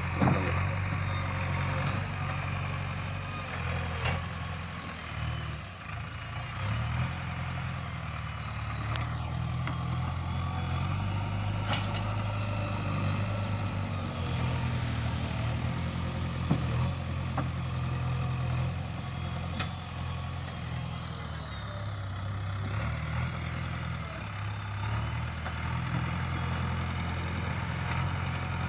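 Heavy diesel engine running steadily, its speed shifting a little up and down, with a few sharp clicks or knocks.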